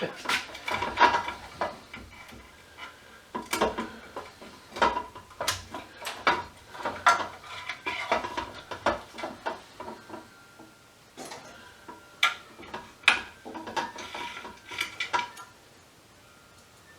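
Small metal parts and hand tools clinking and clattering on a workbench in irregular taps and knocks, thinning out near the end.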